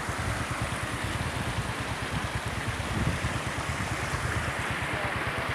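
Royal Enfield motorcycle's single-cylinder engine running at idle, a fast, even low thumping, under a steady rushing hiss. This is the engine the rider presents as failing after coming down a high mountain pass.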